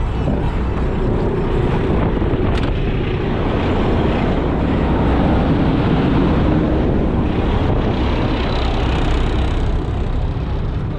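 A motor vehicle running, mixed with a steady rush of wind on the microphone.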